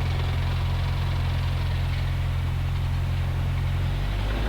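Cessna 172's piston engine running steadily during the takeoff roll, a low droning note whose pitch shifts slightly near the end.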